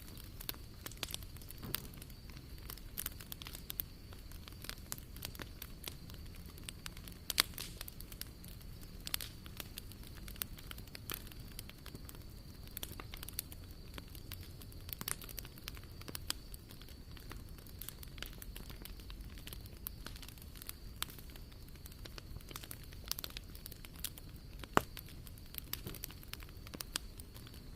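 A bonfire in a fire-pit stand burning and crackling, with frequent irregular sharp pops.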